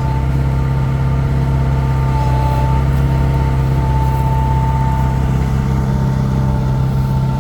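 Heavy diesel engine running steadily at a constant speed, a deep even hum with a thin steady whine above it.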